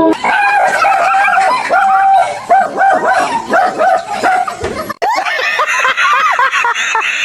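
A dog giving a rapid series of short, high barks and yips at a steady pitch. It cuts off abruptly about five seconds in, and a different clip follows with higher, wavering yelps.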